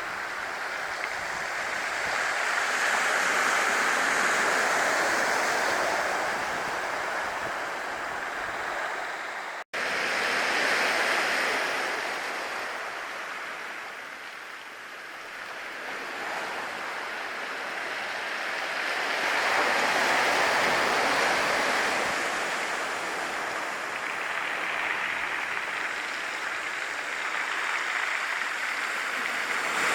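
Black Sea surf washing onto the shore, swelling and ebbing every several seconds as the waves come in. The sound drops out for a split second about ten seconds in.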